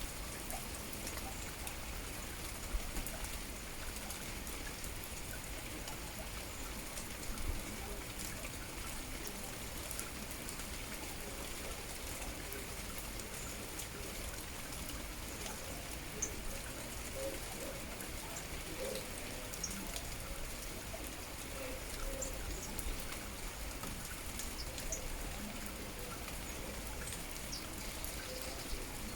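Steady rain falling, with scattered drops and drips ticking through it. A few faint, short bird chirps come through now and then.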